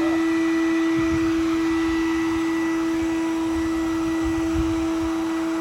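A small motor running steadily with a constant, even-pitched hum, with a few low thumps and bumps of handling about a second in and again near the end.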